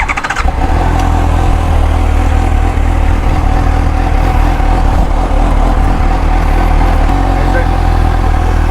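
Motorcycle engine running steadily with a constant low rumble.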